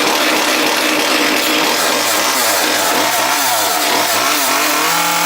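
Chainsaw running and cutting into an oak post, cutting in suddenly at full level. Its engine speed rises and falls repeatedly as it works through the wood, then holds a steady pitch near the end.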